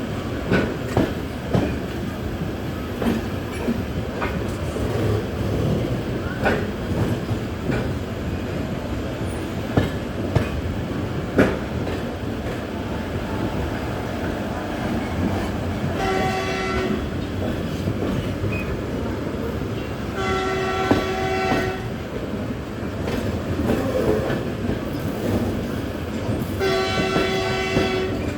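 A train running on the rails with a steady rumble and scattered clicks and knocks over the track. A locomotive horn sounds three times, at about 16, 20 and 27 seconds in, each blast lasting about a second.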